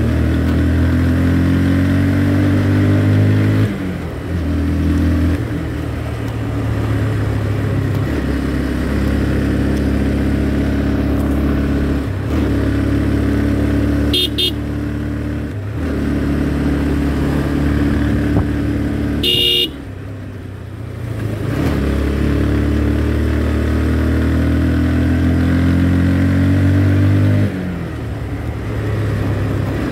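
Motorcycle engine under way, its pitch climbing through each gear and falling back at each change. A vehicle horn beeps briefly about halfway through and again a few seconds later.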